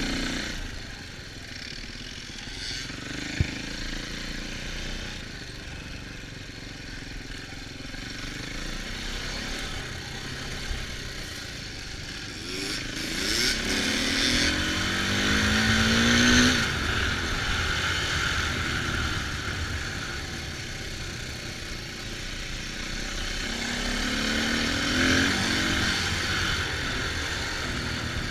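Dirt bike engine running while riding, revving up with a rising pitch about halfway through and again near the end. There is a single sharp click a few seconds in.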